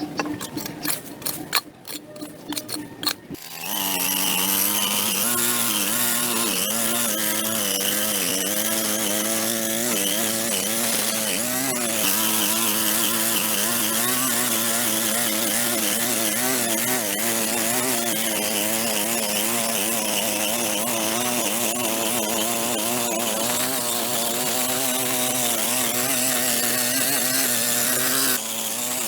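A run of sharp knocks, then, about three and a half seconds in, the small engine of a handheld power tool starts running. It runs steadily with a wavering pitch and drops a little just before the end.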